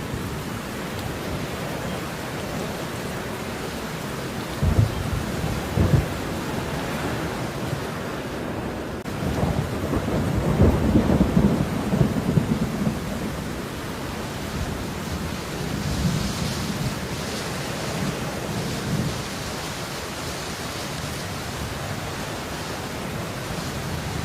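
Steady rain, with low rumbles of thunder: two short ones about five and six seconds in, and a longer, louder roll from about ten to thirteen seconds.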